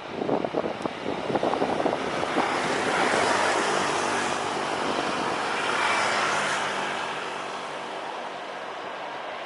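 Jet airliner's engines heard close by as it passes, with an irregular crackle in the first two seconds. The engine noise swells about three seconds in and again around six seconds, over a steady low hum, then eases off.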